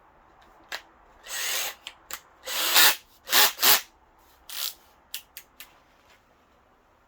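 Power drill run in a handful of short bursts, each under a second, the motor spinning up and down, with small clicks and knocks between them as a hole is started for a rear-window mount.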